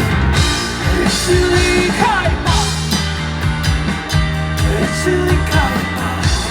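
A rock band playing live: drums, bass and electric guitar in the lead-in before the vocals, with a guitar sliding in pitch a couple of times.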